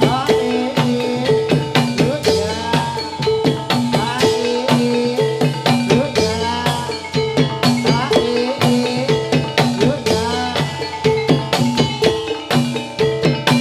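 Gamelan music accompanying a jathilan dance: fast, steady drumming with pitch-bending drum strokes over repeated struck metallophone notes, and a single high note held throughout.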